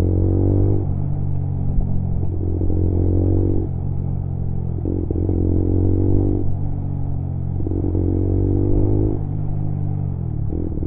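Lexmoto Assault 125's single-cylinder engine and noisy exhaust running steadily while riding. A higher note swells in and drops away about every two and a half seconds, four times.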